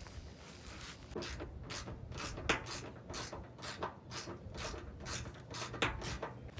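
A hand ratchet wrench clicking in a quick run of strokes, about two to three a second, starting about a second in.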